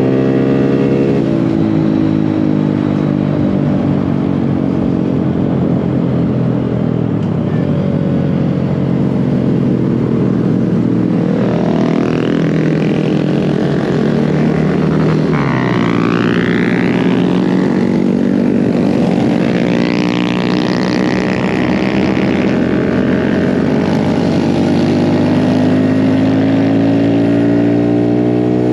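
Mini bike engines running during a ride, their pitch slowly rising and falling with the throttle. Around the middle, higher engine tones sweep up and down as other bikes pass close by.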